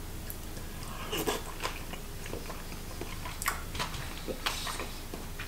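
A person chewing a mouthful of raw salmon sashimi: quiet, irregular wet mouth clicks and smacks.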